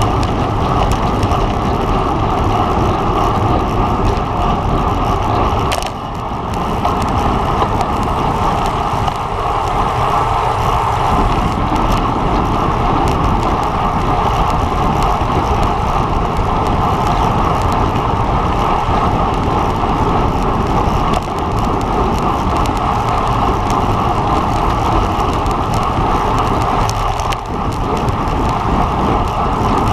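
Steady wind and road noise from a road bike ridden at race speed, with the air rushing over the microphone loudest; it dips briefly a few times.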